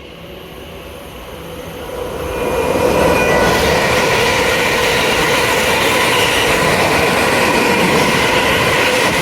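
Electric passenger train approaching and running through the station at speed, its rushing wheel-on-rail noise building over the first three seconds and then holding loud and steady, with a faint whine of a few steady tones over it.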